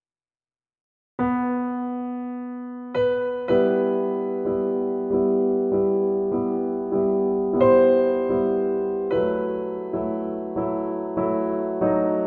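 Silence, then background piano music starts about a second in with a held, fading chord, followed by steady repeated notes in an even rhythm.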